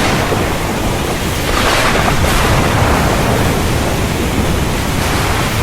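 Waterfall: water rushing and falling in a loud, steady noise that swells slightly now and then.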